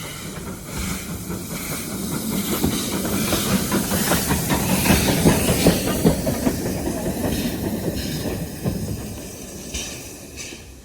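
A train passing close by: a hissing rush with rapid wheel clicks on the rails. It grows to its loudest about halfway through and then fades away.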